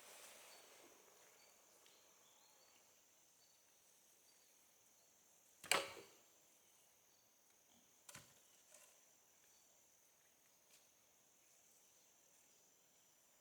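A single sharp knock a little before halfway, then a few fainter knocks, over quiet background hiss with faint high chirps.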